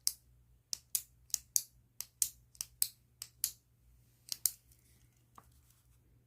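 A pen making quick short strokes on paper, about a dozen crisp scratches in four and a half seconds, then stopping.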